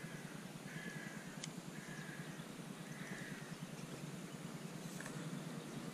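A bird calling four times, short calls about a second apart, over a faint steady low background noise.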